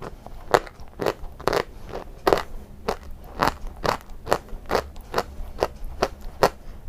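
White chalk being bitten and chewed, crisp crunches about two a second.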